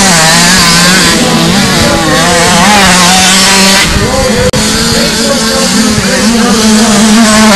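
Several 50cc two-stroke motocross bikes (KTM SX 50 automatics) racing, their engines revving up and down in overlapping, wavering pitches. The sound dips out briefly for an instant about halfway through.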